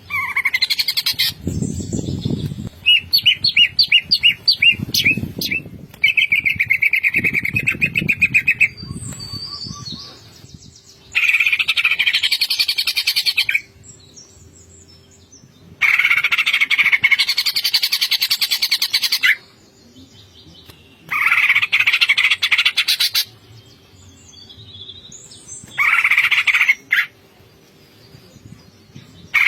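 Cucak ijo (green leafbird) singing in loud, rapid, chattering bouts of varied notes, a few seconds each with short pauses between. Low rumbles sit under the first few bouts.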